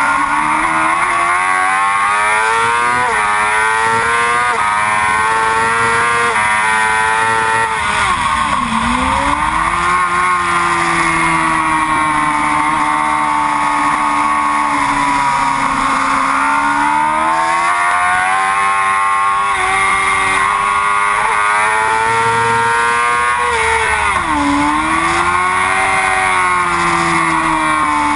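Yamaha R6 sport bike's inline-four engine at racing revs, its pitch climbing and falling steadily through the corners and straights, with a sharp drop and recovery about nine seconds in and again near the end as the rider brakes and gets back on the throttle.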